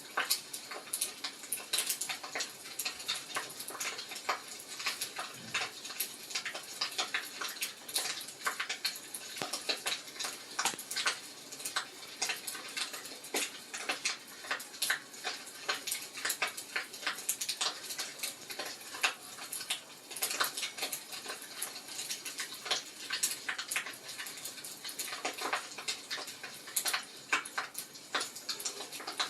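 Fireplace fire crackling, with a dense, irregular stream of small pops and snaps.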